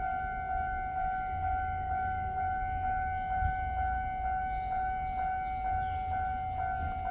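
Steady electronic warning tone holding one high pitch with a faint pulse about twice a second, over a low rumble.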